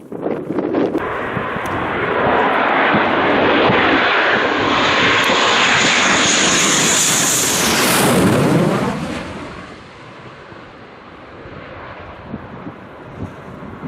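Military jet aircraft passing overhead at low level. The noise builds over the first couple of seconds and stays loud for about six seconds, with a high whine that rises and then falls away. It dies down about nine seconds in.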